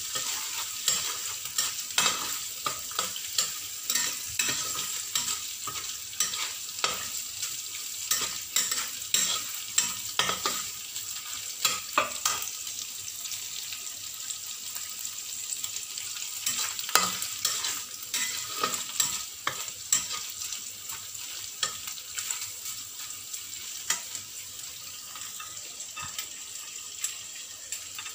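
Diced ingredients sizzling in oil in a stainless steel wok, with a metal spatula scraping and clicking irregularly against the pan as they are stirred.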